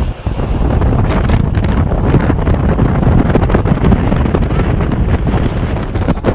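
Strong gusty wind of a dust storm buffeting the microphone, a loud, fluttering low rumble with a brief lull about a quarter second in.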